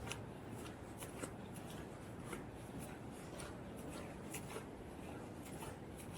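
Footsteps crunching through fresh snow at a steady walking pace, each step a short crunch.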